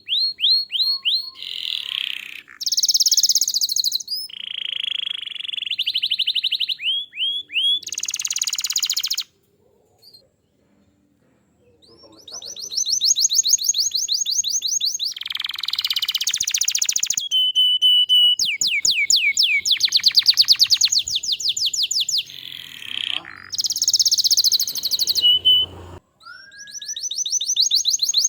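Domestic canary in full song: long runs of fast, rapidly repeated high trills and rolls, changing pace from one phrase to the next, with a pause of about three seconds partway through.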